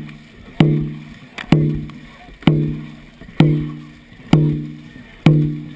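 Dragon boat drum beaten at an even pace, about one strike a second, each beat ringing with a low tone and fading before the next. The drum sets the paddlers' stroke rate during the race.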